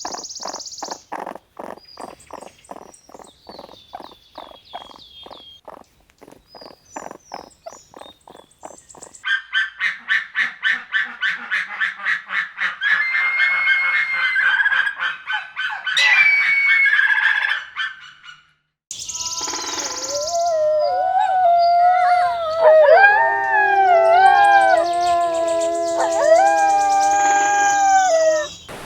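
A run of animal calls. First come fast repeated calls with high chirps over them, then louder rapid calls, and after a short break several overlapping long calls that glide up and down in pitch.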